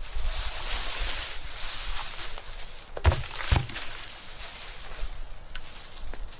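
Rustling, then two dull thuds about half a second apart, about three seconds in.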